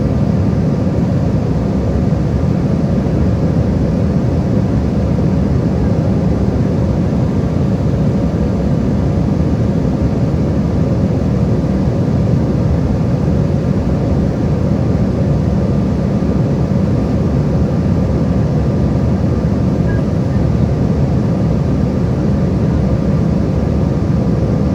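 Steady airliner cabin noise: the jet engines and the air rushing past the fuselage, heard from inside the passenger cabin as a low, even rumble with faint steady tones above it.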